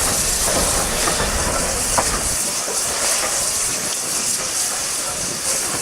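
Steam locomotive hissing steam steadily. A low rumble underneath stops about two and a half seconds in, and there is one sharp click just before.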